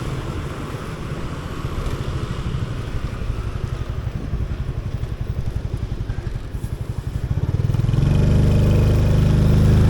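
Motorcycle engine idling with a rapid low pulse, then growing louder near the end as the bike pulls away.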